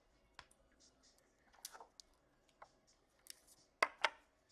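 Trading cards being handled: a few short scrapes and clicks as cards slide against one another, the two loudest a little before the end.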